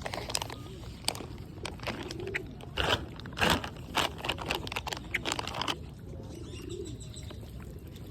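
Pigeons cooing low and soft amid a run of sharp clicks and taps, which stop about six seconds in; another coo comes near the end.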